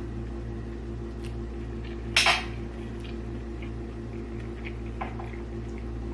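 Eating utensils clinking and tapping against a dish: a few scattered clicks, the loudest a quick double click about two seconds in, over a steady low hum.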